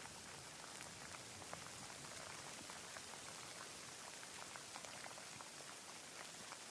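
Steady light rain: a soft hiss with many separate drops ticking as they land.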